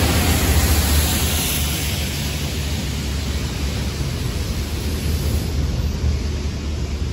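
Rail head treatment train passing close by: a loud hiss from its high-pressure water jets blasting the railhead, over the low rumble of the wagons and the trailing Class 68 diesel locomotive. The hiss is strongest about the first second in, and the whole sound slowly fades as the train moves away.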